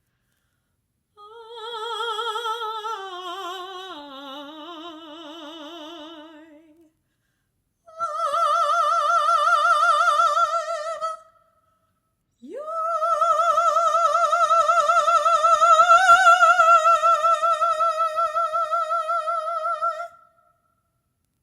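A solo classical singer, unaccompanied, sings three long notes with wide vibrato. The first phrase steps downward, the second holds a high note, and the third scoops up from low to a held high note that swells in the middle and then stops.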